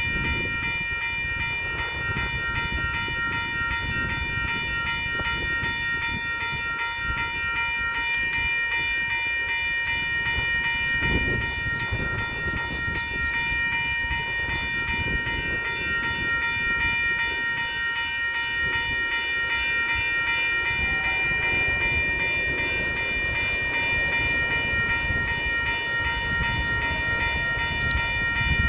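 A train rumbling along the track with a steady high-pitched whine that holds one pitch throughout.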